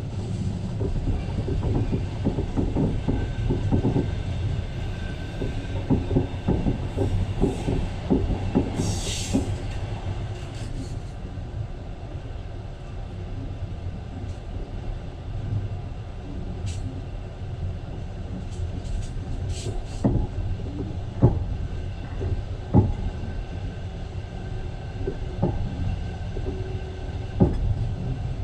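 Passenger train running, heard from inside the carriage: a steady rumble with irregular clacks of the wheels over rail joints, a short hiss about a third of the way in, and a few sharp knocks in the second half.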